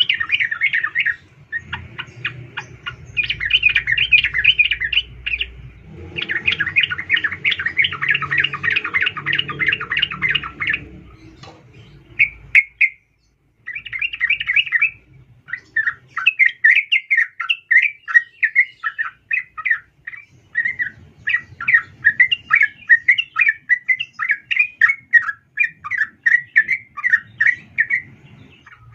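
Female yellow-vented bulbul (trucukan) calling to a male: long runs of rapid chattering notes, breaking off briefly about eleven seconds in, then resuming as a fast steady series of notes.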